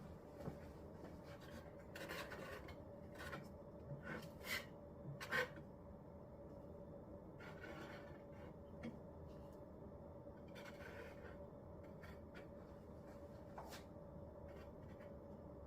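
Putty knife scraping and spreading Henry Feather Finish cement over a laminate tabletop in short strokes, a cluster of louder scrapes in the first half and fainter ones after. The cement is drying and starting to stick to itself, so the knife drags and lifts product.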